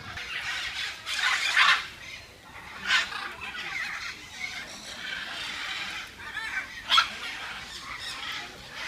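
Birds calling in a bird park, with several loud harsh calls about one and a half, three and seven seconds in over a steady chatter of other birds.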